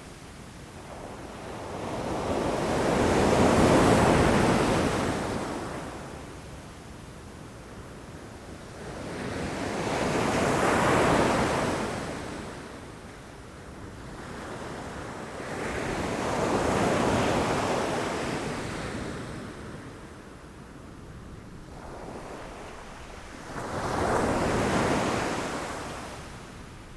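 Ocean waves breaking against rocks, four swells of surf in turn, each building to a wash and fading back over several seconds. The last wave comes in more suddenly, near the end.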